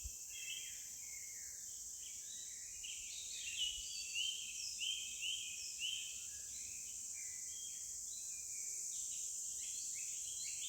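Several small birds chirping in short, overlapping notes, busiest a few seconds in, over a steady high hiss.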